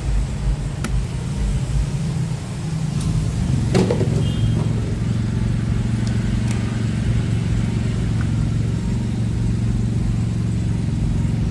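Car engine running with a steady low hum; about four seconds in there is a sharp click and the engine note shifts, then holds steady.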